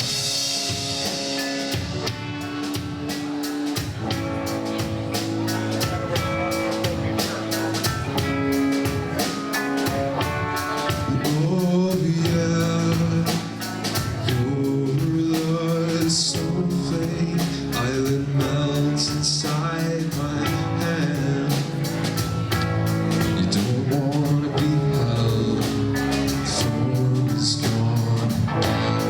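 Live rock band playing a song: electric guitar over a driving drum kit, with a voice singing over it.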